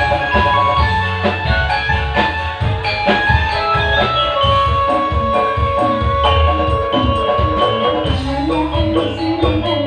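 Campursari band playing, with drums keeping a steady beat under a bass line and pitched melody instruments; a single high note is held for several seconds in the middle.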